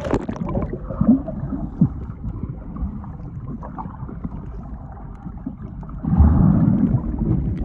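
Wind buffeting and handling rumble on a phone microphone, with scattered knocks, rising in a louder low surge near the end.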